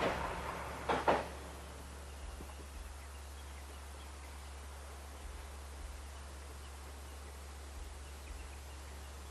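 The tail of a KiHa 120 diesel railcar passing and fading away, with a quick double clack of wheels over a rail joint about a second in. After that only quiet outdoor background with a faint steady low hum remains.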